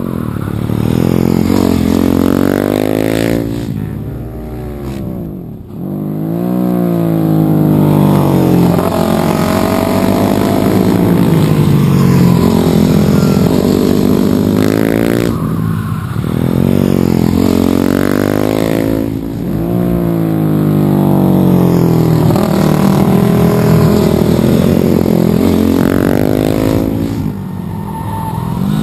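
Supermoto motorcycle engines revving hard, the pitch repeatedly climbing and dropping as the bikes shift, brake and accelerate through the corner. The sound fades briefly a few times, between passes.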